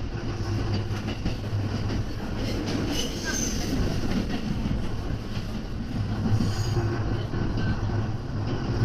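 JR commuter train running, heard from inside the carriage: a steady low rumble of wheels on rail, with faint high wheel squeals about three seconds in and again near the end.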